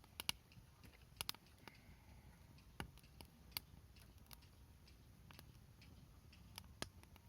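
Wood fire crackling in a folding fire pit: irregular sharp pops and snaps, a few louder than the rest, over a faint low rumble.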